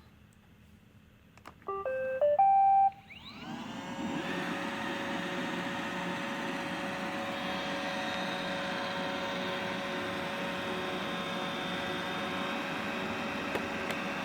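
iRobot Roomba 870 robot vacuum playing its short start-up tune of a few electronic notes, then its vacuum motor and brushes spinning up with a rising whine and running steadily. It is starting a cleaning run normally, with no trash-can error now that its dirt-bin sensors are clean.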